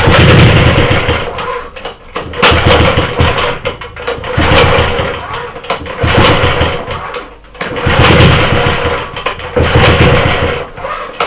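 A 75cc Suffolk two-stroke engine being pull-started over and over, about five pulls two seconds or so apart, each one cranking loudly without the engine running on. It fails to start because the fuel tank has run dry.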